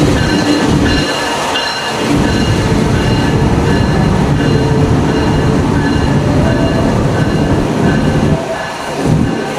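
Train rolling through the station, its wheels rumbling on the rails, with a thin high squeal running over the rumble.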